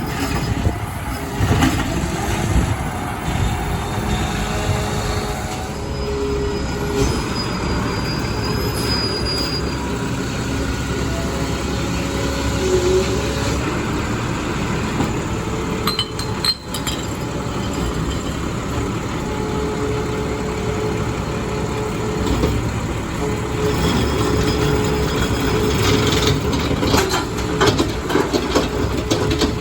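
Mack refuse truck with a McNeilus body working close by: the diesel engine runs under long metallic squeals and scattered clanks.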